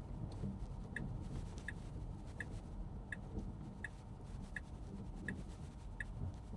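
Tesla Model 3 turn-signal indicator ticking in the cabin, a short pitched tick about every 0.7 seconds, over a low rumble from the car rolling slowly.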